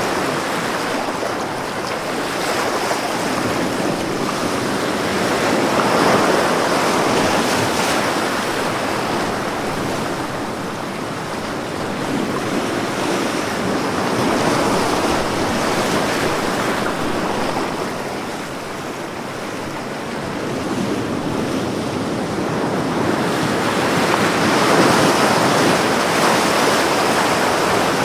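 Ocean waves breaking and washing on a shore, a continuous surf rush that swells and eases slowly, with peaks about every eight to ten seconds.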